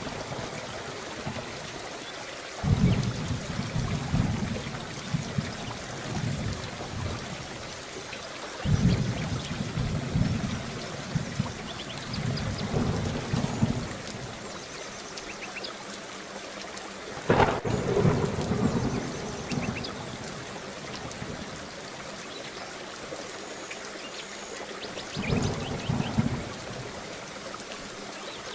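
Heavy rain falling steadily, with four rolls of thunder about every six to eight seconds. The third peal, a little past the middle, opens with a sharp crack before it rumbles away.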